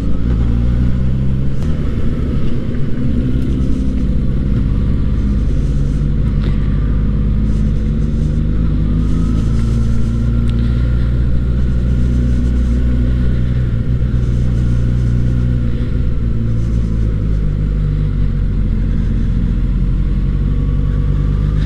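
Suzuki GSX-S1000's 999 cc inline-four engine, heard from the rider's seat, running steadily at modest revs, with small rises and falls in pitch as the bike threads a narrow lane.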